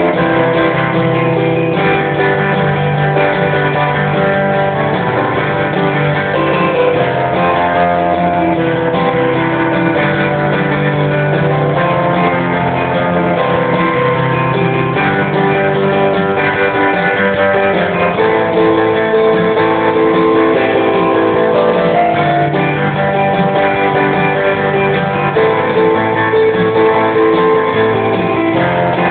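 Guitar playing a slow riff of chords that are let ring for a second or more before changing, with a rough, muffled tone.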